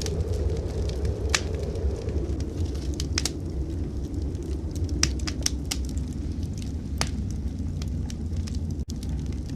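Wood fire crackling in a fireplace, with scattered sharp pops, over a steady low roar of blizzard wind. The sound drops out for an instant near the end.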